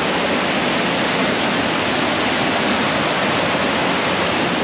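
Waterfall pouring down, a loud, steady rush of falling water.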